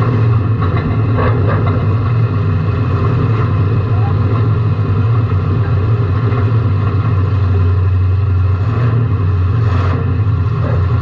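A competition car's engine running hard and steady, heard from inside the car, with a few short knocks and rattles, several near the start and one about ten seconds in.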